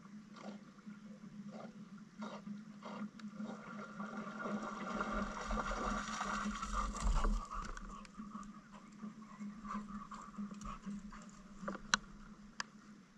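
Canoe paddling on a river: paddle dipping and water dripping and splashing in a steady run of small splashes, swelling louder in the middle. Two sharp clicks near the end.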